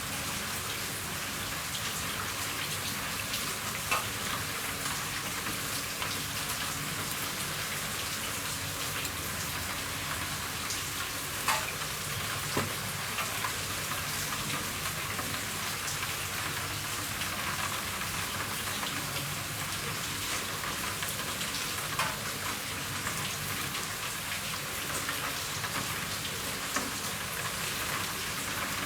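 Steady rain on a roof: an even, continuous hiss of falling drops, with a few louder single drips striking now and then.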